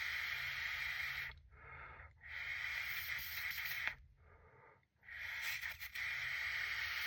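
Torch lighter hissing steadily while reheating the smoking material, cutting off twice for about a second, with a click just before the second cut-off.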